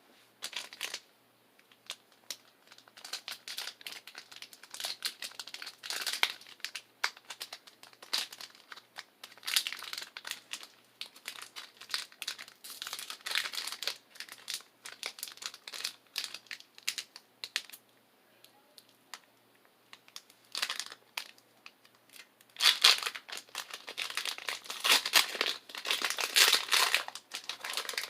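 Foil Pokémon booster pack wrapper crinkling and rustling as it is handled and torn open. The sound comes in irregular crackly bursts, loudest near the end.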